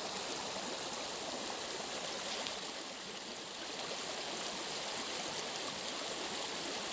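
Flowing water: a steady, even rush with a fine crackle.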